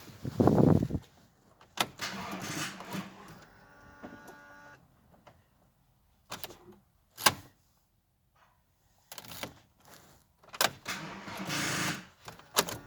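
Short electric whirring bursts and sharp clicks with near-silent gaps from an old diesel car on a weak battery. The starter is tried but the engine does not run.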